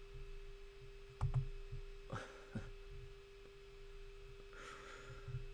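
Quiet room tone with a steady electrical hum, a single sharp click a little over a second in, and a few faint soft noises after it.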